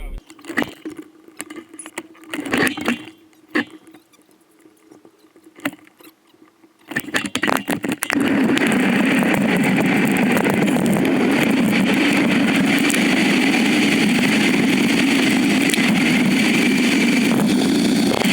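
Scattered clicks and knocks, then a motorcycle engine starts about eight seconds in and keeps running steadily.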